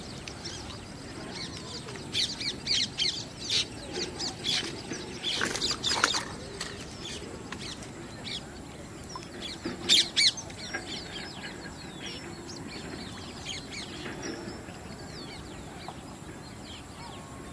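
Birds chirping and calling: clusters of short, sharp, high calls about two to six seconds in and again around ten seconds in, with fainter chirps in between.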